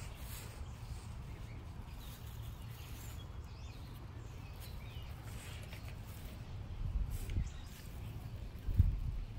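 Outdoor ambience of faint bird chirps over a steady low rumble on the microphone, with two low thumps near the end, the second the louder.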